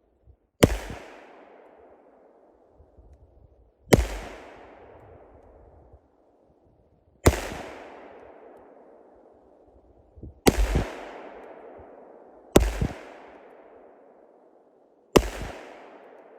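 Six single pistol shots, roughly every two to three seconds, from a 7.5 FK BRNO pistol fired at a 100-yard target. Each sharp report is followed by a long echoing tail that fades over about two seconds.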